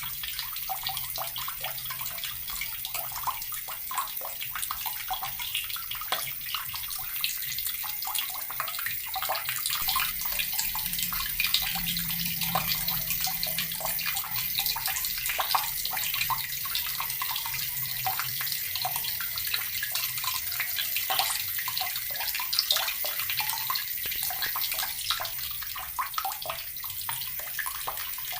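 Water running steadily from a tap and splashing, a continuous hiss with many small spattering streaks.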